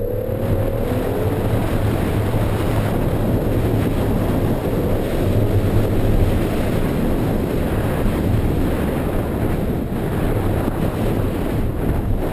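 BMW E46 M3's straight-six engine held at high revs in second gear while drifting, heard from inside the cabin, with the tyres hissing on the wet surface. The sound is steady and loud throughout.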